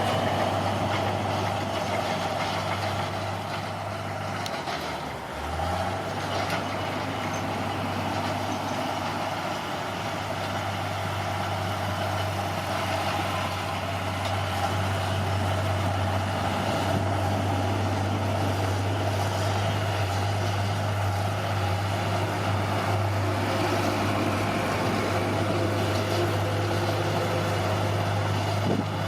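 Bulldozer's diesel engine running steadily under work, with a brief dip in engine speed about five seconds in.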